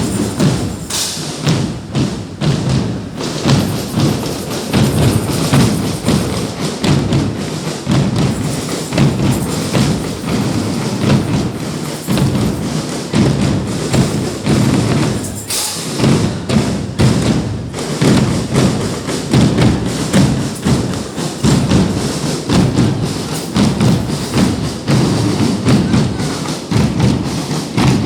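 Drums beating a steady rhythm of heavy low thuds.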